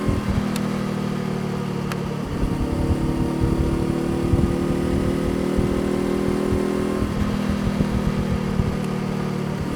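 Honda CBR500R parallel-twin engine running steadily. Its pitch drops just after the start, steps up about two seconds in, and falls again about seven seconds in.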